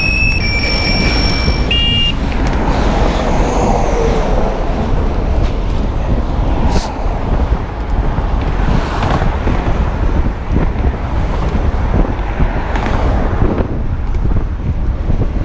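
Wind rushing over the microphone and road traffic noise while riding an electric bike among cars. A few brief high tones sound in the first two seconds.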